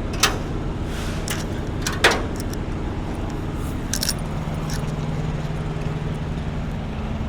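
A few sharp metallic clinks and jingles of tie-down strap hardware being handled, over the steady low hum of an idling vehicle engine.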